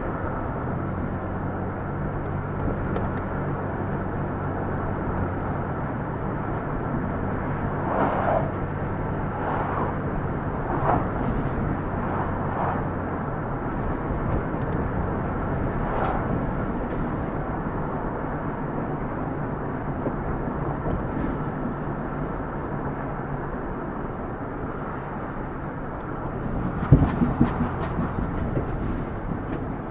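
A vehicle driving along: steady engine and road noise, with a low droning hum through the first half and scattered knocks and rattles. A short cluster of louder thumps comes near the end.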